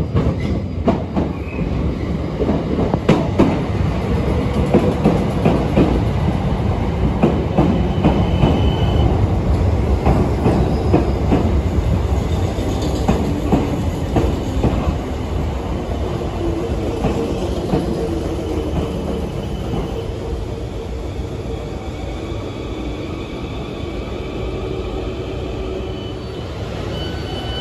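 South Western Railway electric multiple-unit train pulling into a station: the wheels clatter over rail joints and points, with a high squeal coming and going, and the noise eases as the train slows alongside the platform.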